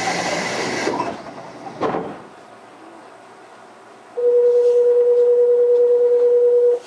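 Inside a Yukarigaoka Line 1000-series people-mover car: a loud hiss of air that ends about a second in, a short rush of noise about two seconds in, then a steady buzzer tone that holds for about two and a half seconds and cuts off sharply.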